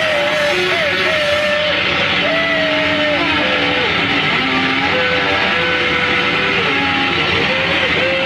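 Live noise music: a loud, dense wall of hiss-like noise over a single sustained tone that keeps sliding and stepping to new pitches every second or so.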